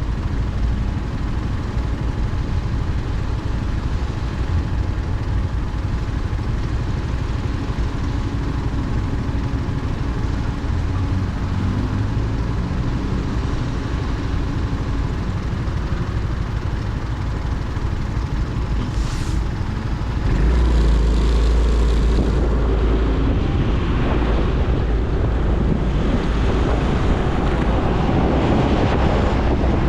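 Motorcycle engine running steadily at low speed with street traffic, then about twenty seconds in it pulls away and wind noise on the microphone builds as the bike gathers speed.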